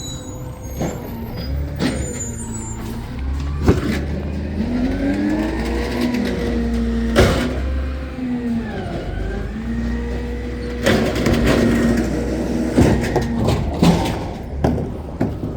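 Garbage truck's diesel engine revving up, holding, dipping and rising again in pitch, with sharp bangs and knocks throughout, several in quick succession near the end.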